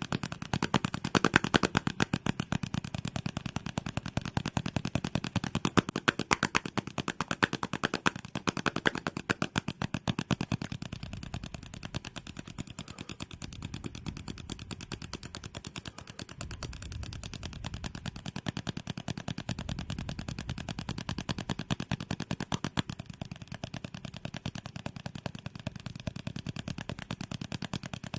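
Fast ASMR trigger sounds close to the microphone: a rapid, even run of clicks and taps, many a second, louder for the first ten seconds or so and softer after that.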